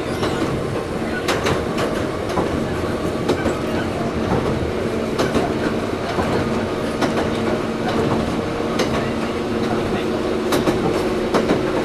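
Heard from inside a Toyohashi Railway 1800 series motor car (ex-Tokyu 7200 series, resistance control) running along the line. A steady hum from the running gear sits under the noise of the wheels, which click irregularly over the rail joints.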